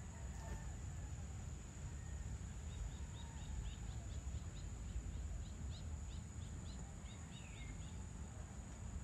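A bird calling a quick series of short high chirps, about four or five a second, for around five seconds, ending with a falling note. Under it runs a low steady outdoor rumble.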